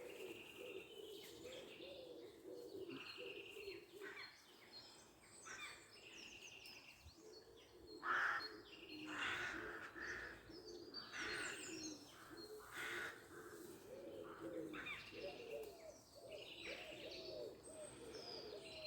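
Woodland birds singing: many short high chirps over a continuous lower, wavering calling, with cooing among it. A few brief, louder noisy sounds come about 8 to 13 seconds in.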